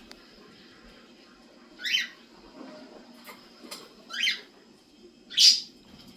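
Pet bird giving three short chirps, the last the loudest, with a few faint clicks between them.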